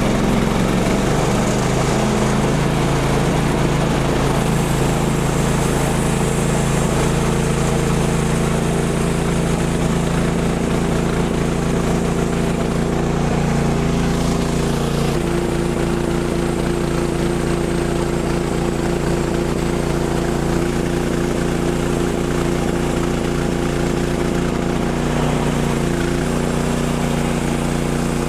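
Gasoline engine of a Woodland Mills HM130 Max portable bandsaw sawmill running steadily, its tone shifting slightly from about halfway through.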